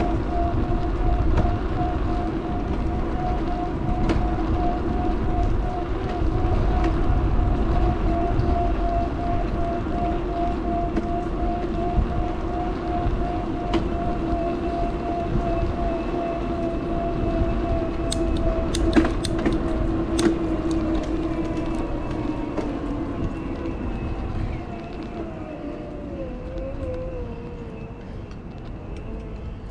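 Wind rumbling on the action camera's microphone during the ride, over a steady whine that slides down in pitch near the end. A few sharp clicks come about two-thirds of the way through.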